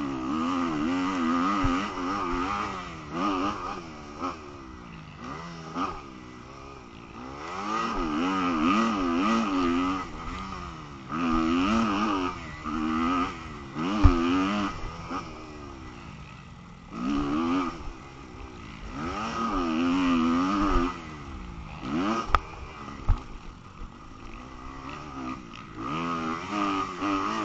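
Motocross dirt bike engine racing on the track, its pitch climbing and dropping over and over as the throttle is opened and closed through shifts, corners and jumps. A few sharp thumps stand out, the loudest about halfway through and two more a little later.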